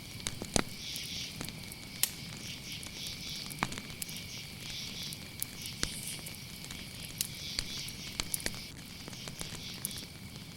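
Campfire crackling with scattered sharp pops over a steady chorus of crickets chirping.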